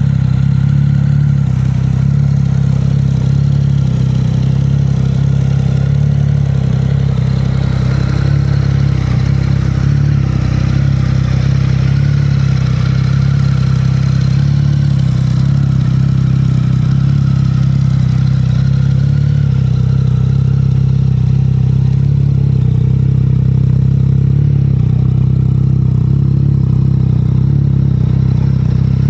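Triumph Speed Triple S 1050's inline three-cylinder engine idling steadily, with no revving.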